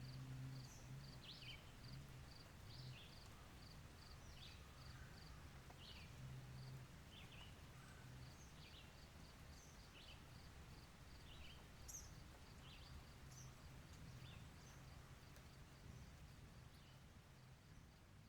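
Faint outdoor ambience: a bird repeating short falling chirps about once a second over a steady run of high pips and a low hum, fading near the end.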